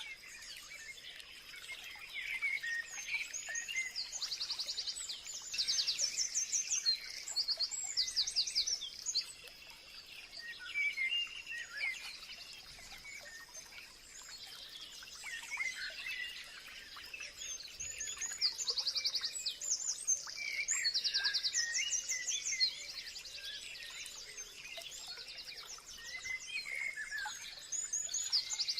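Several wild birds singing and calling at once: fast trills of rapidly repeated high notes come back every few seconds, mixed with shorter chirps, over a steady thin high tone.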